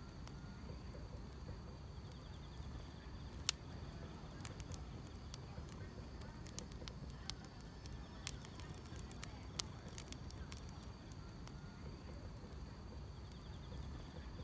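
Wood fire burning with a low steady rumble and scattered sharp crackles and pops, the loudest about three and a half seconds in. Grass insects chirp faintly in a steady high band behind it.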